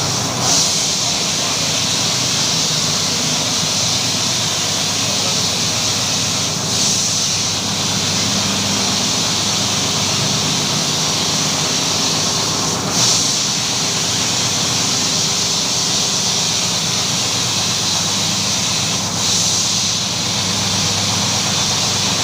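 Carpet-washing machine running: a steady motor hum under a loud hiss, with a brief surge about every six seconds.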